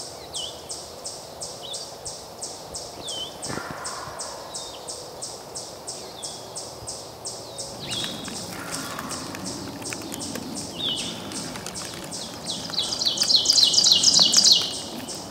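Songbirds singing in the woods: a rapid, steady run of short high notes, about three or four a second, with a few separate down-slurred calls from another bird. A louder, closer burst of high bird song comes near the end.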